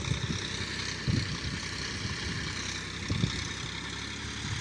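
Massey Ferguson 1035 DI tractor's three-cylinder diesel engine running steadily, with a few short low thumps about a second in and about three seconds in.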